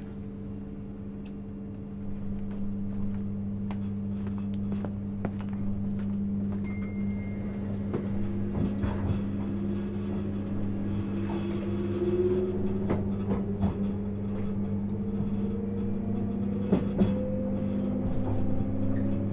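Inside a 651-series electric train car: a steady electrical hum with scattered clicks, then from about eight seconds in a rising motor whine as the train starts to accelerate.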